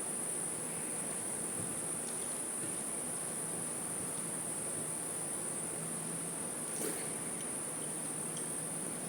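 Crickets chirping in a steady, unbroken high-pitched trill, with a few faint clicks, one near the end a little louder.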